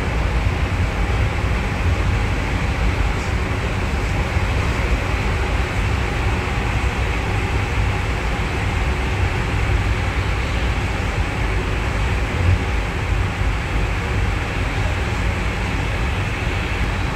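Steady running rumble and rolling noise of a moving metro train, heard from inside the passenger car, deepest in the low bass.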